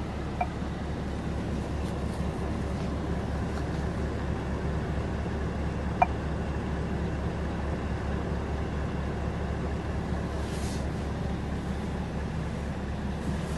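Scania R 580 truck's V8 diesel engine running at a steady, deep drone, with a single sharp click about six seconds in.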